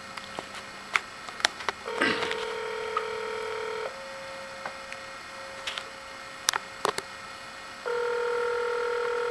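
Telephone ringback tone heard down the line while an outgoing call rings, with two rings of about two seconds each, six seconds apart. Scattered clicks and a faint steady hum come from the phone line.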